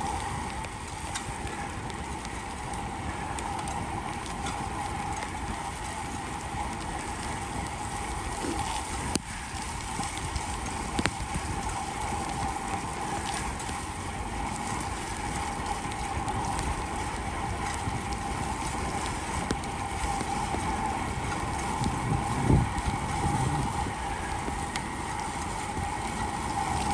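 Bicycle rolling along a wet paved trail in the rain: a steady hiss of tyres and wind with a constant whir from the bike, one sharp click about eleven seconds in and a low thump a little over twenty seconds in.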